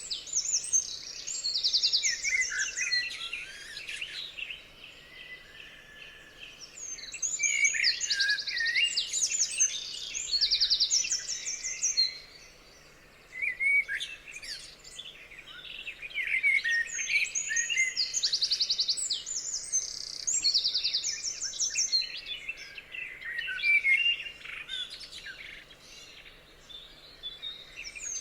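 Songbirds singing, with rapid high trills and chirping phrases in bouts of a few seconds and a brief lull about halfway.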